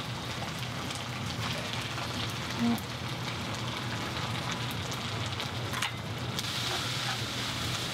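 Rice noodles and eggs frying in an oiled nonstick pan: a steady sizzle. It grows brighter near the end as a spatula stirs the noodles.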